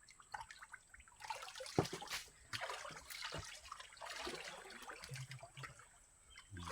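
Water splashing, trickling and dripping in short irregular bursts, as shallow water is worked during draining.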